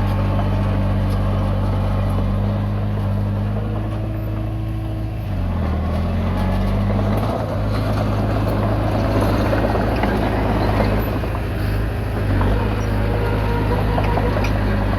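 Komatsu D20P bulldozer's diesel engine running steadily as the machine pushes soil; about five seconds in the engine note dips briefly and recovers, followed by a rougher, noisier stretch with scattered clanks.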